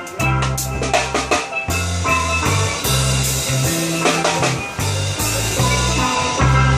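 Steel drum band playing a tune, with a low bass line and drum hits keeping the beat.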